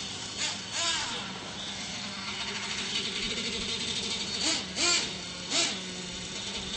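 Radio-controlled monster trucks running: a steady motor hum, with a few brief swoops in pitch as they rev, the loudest a cluster of three about two-thirds of the way through.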